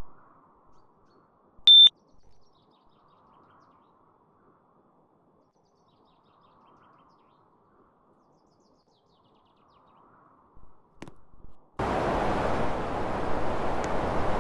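BGH split air conditioner's indoor unit giving one short high beep about two seconds in, the beep such a unit gives when it takes a remote command, then a brief click near eleven seconds and a steady rush of air from its fan starting up about twelve seconds in.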